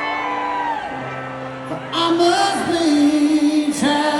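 Live band playing a slow song with sustained, held instrument notes; about two seconds in a man's voice comes in louder, singing long held notes that waver in pitch.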